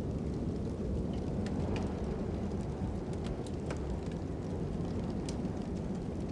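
Fire crackling, with scattered sharp pops, over a steady low rumble of wind.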